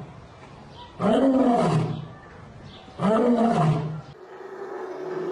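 An animal calling: two drawn-out calls about a second each, starting about a second in and three seconds in, each rising then falling in pitch. A steadier held call begins near the end and grows louder.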